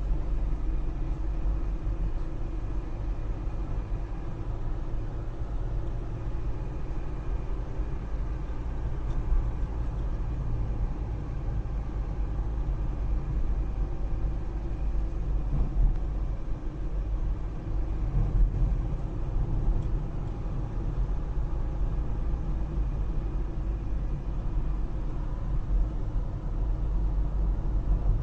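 A steady, continuous low rumble, with a few faint steady tones above it and occasional small peaks in loudness.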